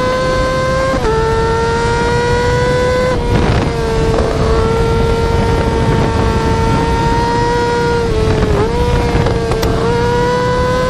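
Yamaha R6 inline-four exhaust held at high revs, a sustained high-pitched engine note that stays nearly level. Its pitch dips slightly about a second in and again near the end, over a rough low rumble of wind and road noise.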